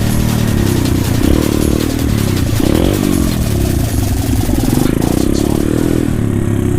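Pit bike engine running, its pitch rising and falling repeatedly as the throttle is opened and closed.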